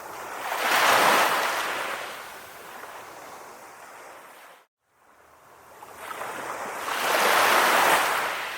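Calm ocean waves breaking and washing up, two swells of surf: one peaking about a second in and another near the end. There is a brief, abrupt dropout to silence about halfway through.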